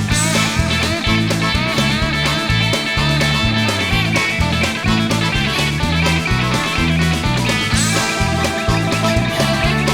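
Country-rock band playing an instrumental break, with guitar leading over a pulsing bass line and drums keeping a steady beat.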